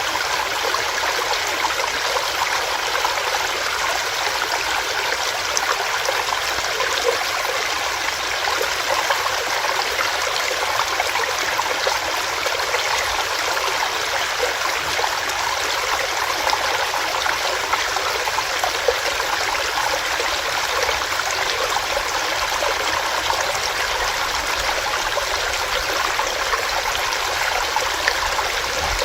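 Small stream running over rocks, a steady rush of water with bright splashing and babbling.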